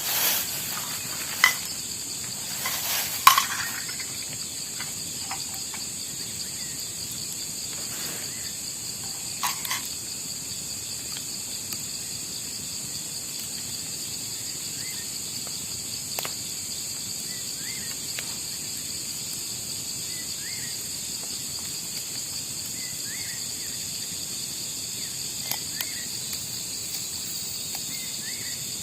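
Steady chorus of crickets and other insects, several even high tones held throughout. A few sharp knocks come in the first few seconds and again around ten seconds in, and faint short chirps are scattered through the rest.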